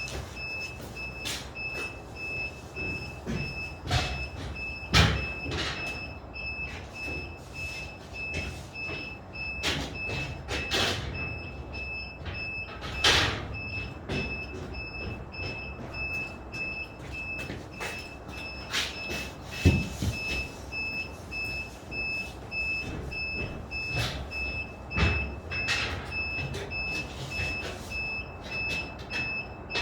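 Apartment construction site noise: a high electronic beep pulses without a break, like a machine's warning alarm, while sharp knocks and clatters of building materials come at irregular moments, the loudest about 5, 13 and 20 seconds in.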